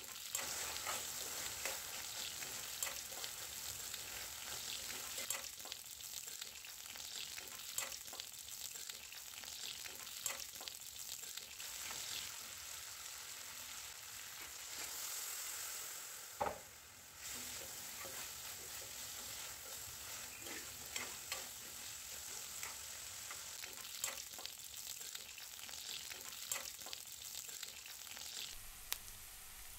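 Drumstick pieces frying in masala in a stainless-steel kadai, a steady sizzle, with a steel spoon stirring and clicking against the pan now and then. The sizzle drops away briefly about halfway, after a knock.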